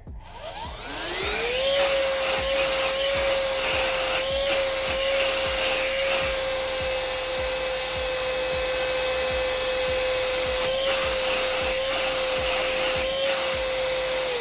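Cordless handheld vacuum cleaner switched on: its motor spins up with a rising whine, runs steadily with a high whine and airflow hiss, then winds down at the end as it is switched off.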